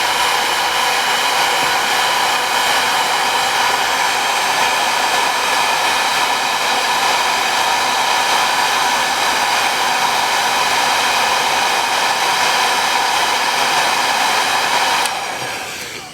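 Hot-air blower running steadily with a fan whine, heating a phone's back camera glass to soften its adhesive; it is switched off and winds down near the end.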